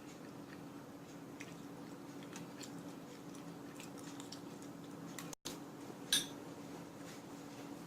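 Quiet eating: faint scattered clicks of a spoon against a bowl, with one sharper clink about six seconds in, over a steady low hum.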